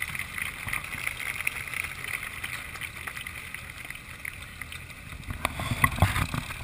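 Farm tractor engines running steadily in a low rumble. A few sharp knocks come near the end and are the loudest part.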